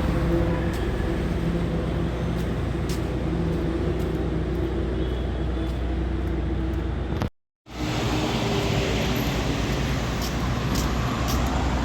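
Steady road traffic: the engines and tyres of vehicles passing on a busy road. The sound cuts out completely for about half a second a little past the middle, then resumes the same.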